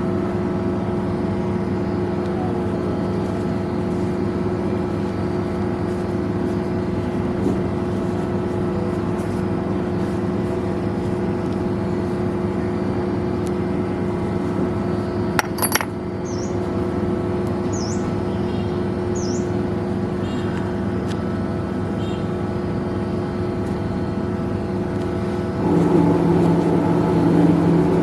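A motor running with a steady hum. A little past halfway there is a brief sharp click, and near the end the hum gets louder and drops slightly in pitch, as if the load or speed changes.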